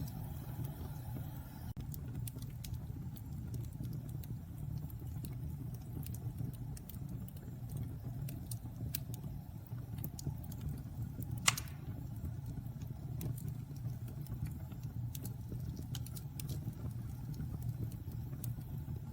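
Wood fire burning in a fireplace: a steady low rumble of flames with scattered crackles and one loud pop a little past halfway.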